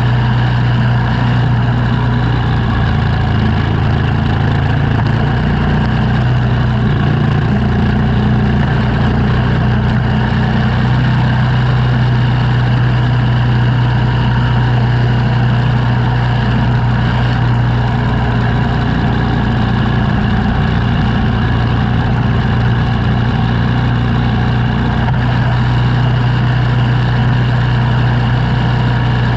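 An engine running steadily at a constant speed, with a strong low hum and no change in pitch or loudness.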